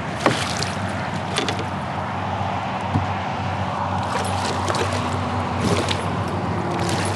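Steady traffic noise from a nearby interstate highway, with a few short knocks and small water splashes close by as a landed pike is handled at a kayak.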